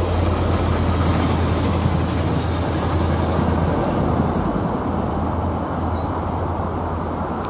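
Tri-Rail commuter train passing and moving away: bilevel coaches rolling on the rails over a steady low diesel drone, all slowly fading.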